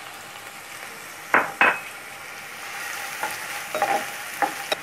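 Chopped onion frying in hot oil in a coated kadhai, a steady sizzle, while a steel spoon stirs it. Two sharp knocks of the spoon against the pan about a second and a half in, then lighter scrapes and clinks near the end.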